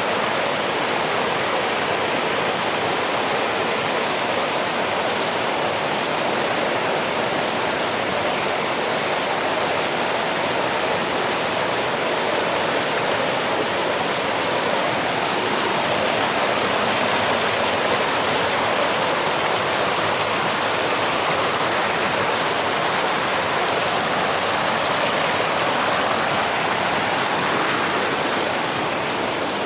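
Steady rushing of a mountain waterfall, an even, unbroken noise of falling water.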